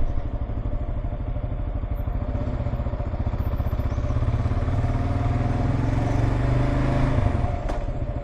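Kawasaki KLR 650's single-cylinder engine running at low speed in town, pulling a little harder for a few seconds in the middle and easing off near the end.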